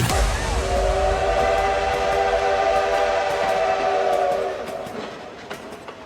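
Train horn sound effect in the song's outro: a chord of several steady tones held for about four seconds, then fading out, over faint clicks.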